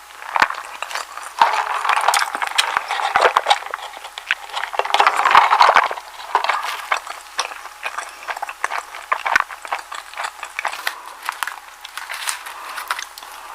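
Close-miked chewing of a soft egg sandwich: moist mouth clicks and squishy bursts, heaviest about a second in and again around five seconds in.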